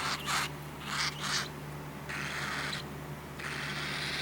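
Cockatiel chick making raspy, hissing calls: a few short ones, then two longer drawn-out ones.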